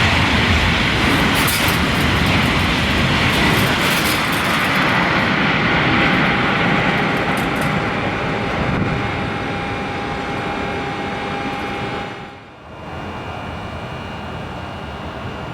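High-speed TGV-family train passing through at speed: a loud, steady rush of air and rail noise that starts suddenly and holds for about twelve seconds, with a faint steady whine joining halfway. It then drops away abruptly, leaving a quieter, lower rumble.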